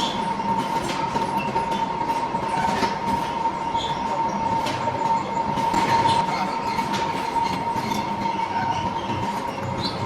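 Metal lathe running and cutting a workpiece: a steady high-pitched whine over continuous machine noise, with scattered ticks and crackles.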